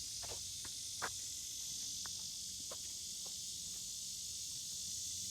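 Steady high-pitched chorus of insects droning without a break, with a few faint clicks in the first few seconds.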